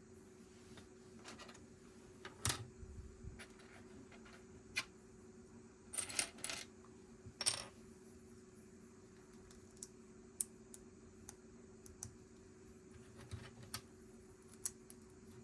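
Small plastic Lego pieces clicking and clattering as they are handled, sorted and pressed together. A few louder rattling clusters come in the first half, then scattered single clicks.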